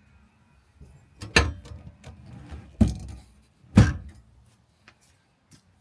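Three loud clunks over about two and a half seconds, with rattling between them, then two faint clicks near the end.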